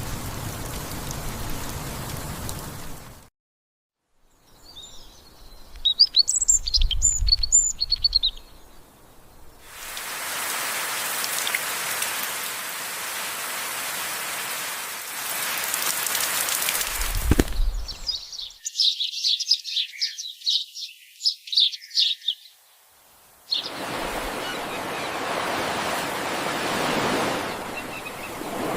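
A run of separate nature recordings: steady rain hiss, then a brief dead silence, a bird chirping in short high notes, more steady rain, and a bird chirping in a fast series of high notes. A steady rushing noise follows near the end.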